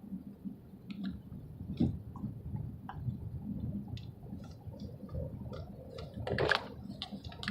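Car driving at night, heard from inside the cabin: a steady low road-and-engine rumble with scattered faint clicks, and a brief louder rustle about six and a half seconds in.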